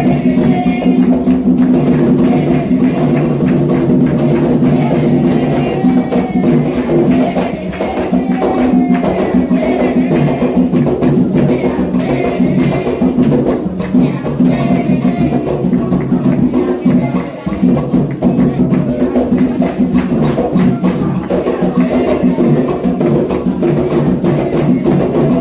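Candomblé ritual drumming: atabaque hand drums and a bell playing a toque for Oxossi, with voices singing over it.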